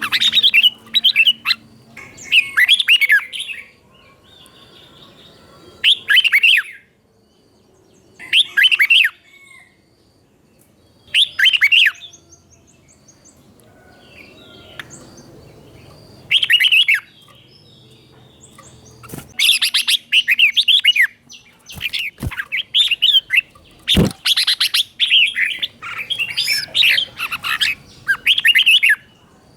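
Red-whiskered bulbul singing short, rich warbled phrases of about a second each with pauses of a few seconds between them, then singing almost continuously in the last third. A couple of sharp knocks come between phrases near the end.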